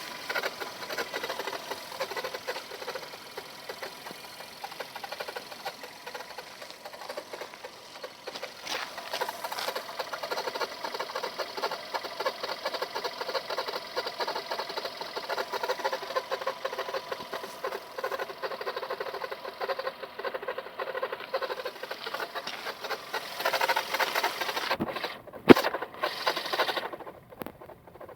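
1.2-litre engine of a VW Golf Plus running with a fast, even ticking clatter, which the owner suspects comes from the timing chain. A single sharp click about 25 seconds in, and the clatter breaks up near the end.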